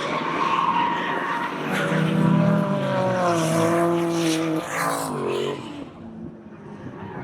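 Drift car engine at high revs with tyres squealing through a slide; the engine note sags and then climbs again about five seconds in, and the sound drops away around six seconds in.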